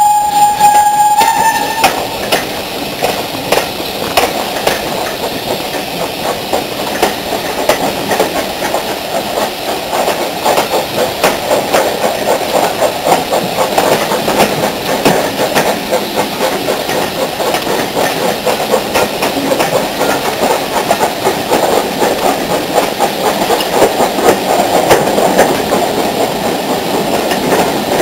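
Steam locomotive whistle held on one steady note, cutting off about two seconds in. Then the locomotive and its train run on with a fast, continuous beating and clatter.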